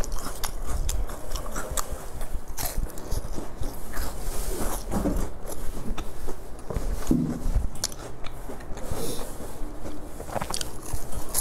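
Close-miked biting and chewing of a round baked pastry, with many short sharp mouth clicks throughout.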